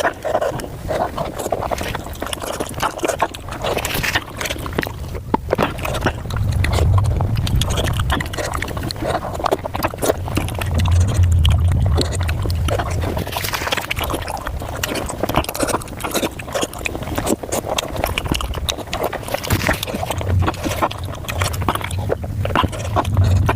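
Eating sounds played back at five times speed: a dense, rapid run of chewing, mouth clicks and smacks from someone eating pork momo dumplings.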